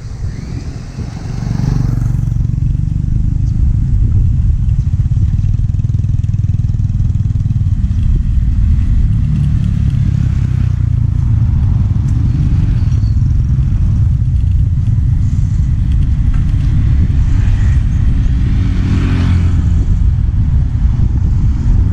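Moving-vehicle road noise with heavy wind rumble on the microphone, rising about a second and a half in and steady after that.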